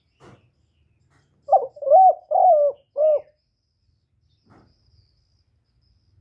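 Spotted dove cooing: one loud phrase of four short coo notes, about a second and a half in, lasting under two seconds.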